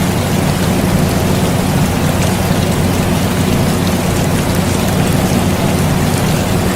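Steady rain with small drop ticks, over the constant low hum of an air conditioner.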